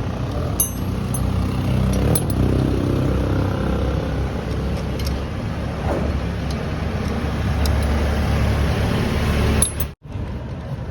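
A motor vehicle's engine running steadily with a low rumble, with a few light clicks and clinks over it. The sound drops out for an instant near the end.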